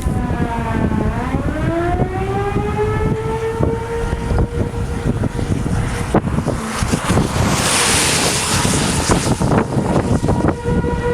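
Outdoor tornado warning siren wailing: its tone dips for about a second, then winds back up and holds a steady pitch. Wind buffets the microphone throughout, with a hissing gust near the end.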